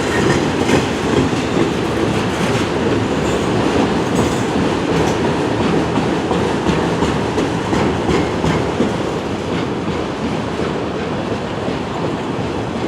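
CN freight train's autorack cars rolling past: a steady rumble of steel wheels on the rails with clickety-clack over the rail joints.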